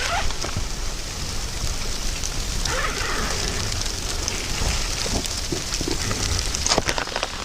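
Steady rain falling, an even hiss with many scattered sharp ticks of drops striking a surface.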